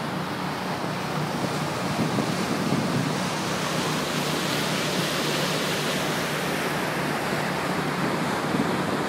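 Wind buffeting the microphone and water rushing past the hull of a moving cruise boat, steady throughout, over a constant low engine hum.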